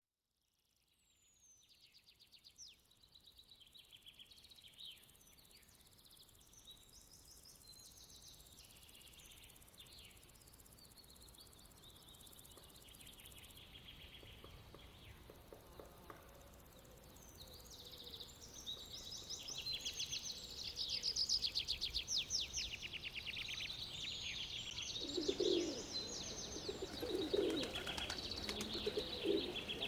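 Small songbirds chirping and trilling, growing louder over the second half, with a dove cooing in low repeated phrases near the end.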